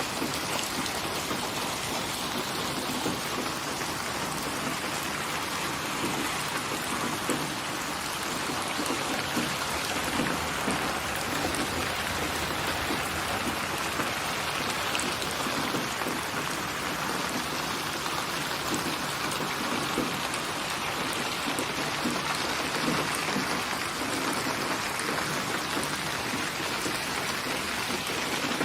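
Steady rain falling and pattering on a surface, an even hiss with fine scattered drops.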